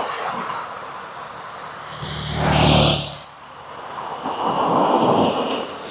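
Street traffic noise, with a road vehicle passing close about two to three seconds in and fading away.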